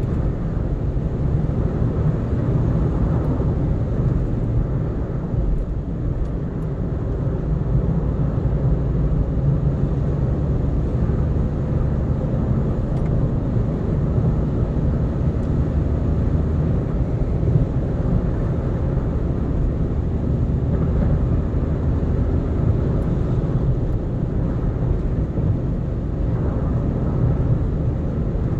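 Steady low road and engine noise of a car cruising on an expressway.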